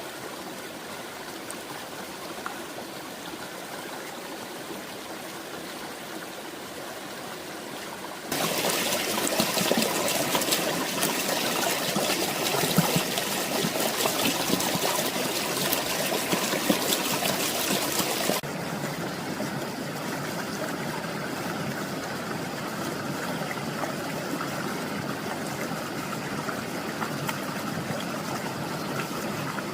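Steady rush of running water. It jumps suddenly louder and brighter about eight seconds in and drops back just as suddenly about ten seconds later.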